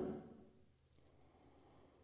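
Near silence, after the last trailing end of a cow's moo fades out right at the start.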